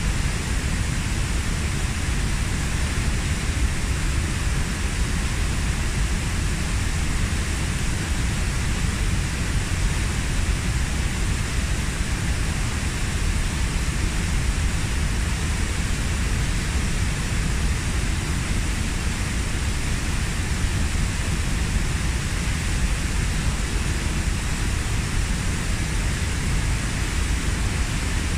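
Waterfall, about 15 m high, pouring into its pool in a steady, unbroken rush of white water.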